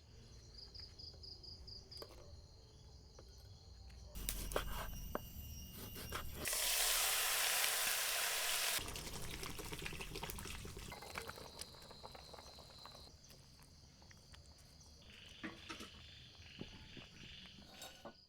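Countryside ambience in a string of short takes: high repeated chirps of insects, a loud stretch of rushing water for about two seconds a third of the way in, and more high chirping near the end.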